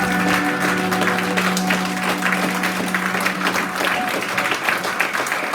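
Audience clapping steadily while the band's final chord rings on and dies away about four seconds in.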